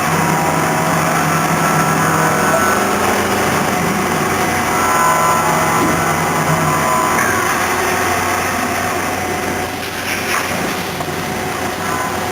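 Okuma MCV16A double column CNC machining center running under power: a steady mechanical hum with motor whines that start and stop, and a few sharp knocks near the end.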